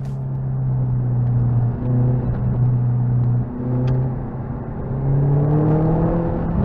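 Lotus Elise 220's supercharged 1.8-litre four-cylinder engine, heard from inside the open cockpit, pulling at steady revs. The engine note dips briefly twice, then revs climb steadily near the end.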